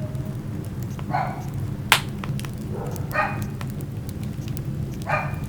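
Wood fire crackling, with scattered small snaps and one sharp pop about two seconds in, over a low steady rumble. Three short, pitched whine-like sounds come through at about one, three and five seconds in.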